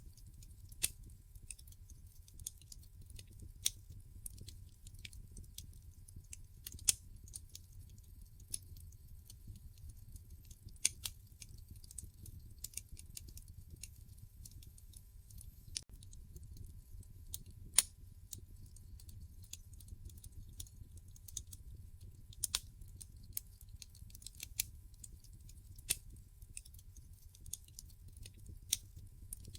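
Wood fire crackling in a fireplace: irregular snaps and pops of burning logs, a few much sharper than the rest, over a low steady rumble.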